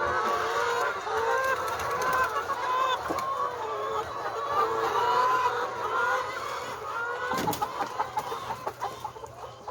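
A flock of chickens clucking and calling, many birds overlapping, the calls thinning out near the end. A single knock sounds about three-quarters of the way through.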